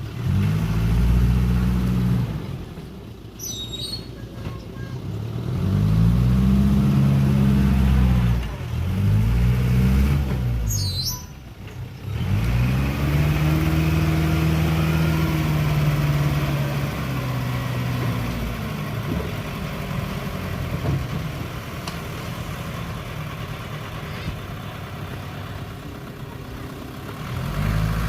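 Heavy diesel engine of earthmoving machinery revving up and down in repeated surges, with steadier running between them. Two brief high squeals cut through, a few seconds in and about eleven seconds in.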